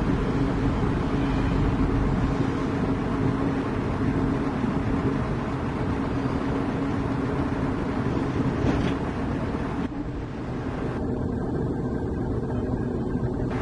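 Heavy diesel engine running steadily, with a brief drop in level about ten seconds in.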